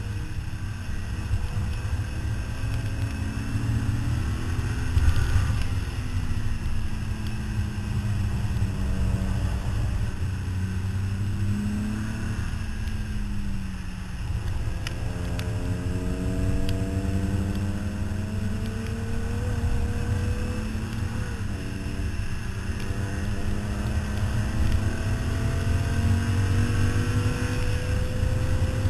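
Car engine at hard track-driving load, its pitch climbing in long pulls as it accelerates and dropping between them, over a heavy, steady rumble of wind and road noise.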